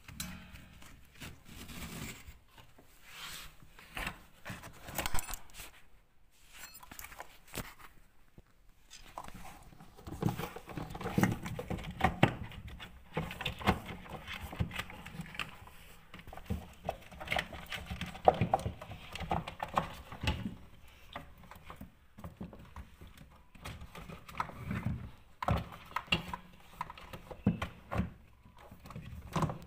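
Irregular clicks, knocks and rattles of hands working on dishwasher parts, with scraping and handling noise between them.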